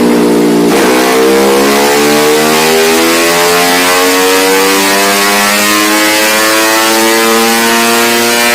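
Tuned 125cc motorcycle engine running under throttle, its pitch climbing slowly and steadily after a brief break about a second in.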